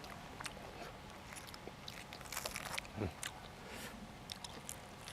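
A person chewing food with small crunches and wet mouth clicks, close to the microphone, with a brief low swallow-like sound about three seconds in.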